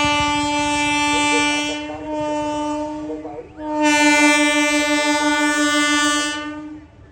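Train horn sounding two long blasts at one steady pitch over the rumble of a train: the first is already sounding and drops away about two seconds in, and the second starts about three and a half seconds in and fades out near the end.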